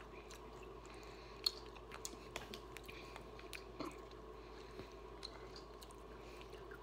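Faint wet mouth clicks of someone chewing a soft, chewy apple gummy candy, scattered irregularly over a faint steady hum.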